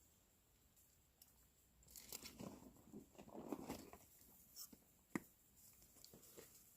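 Near silence with faint handling noises: soft rustling, and one sharp click about five seconds in.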